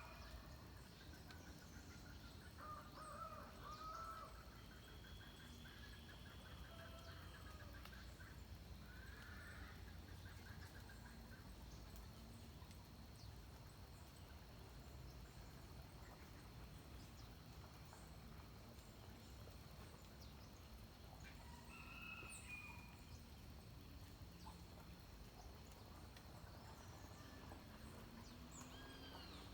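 Faint dawn birdsong: scattered short calls, busiest in the first ten seconds and again briefly a little past twenty seconds, over a thin steady high tone and a low steady rumble.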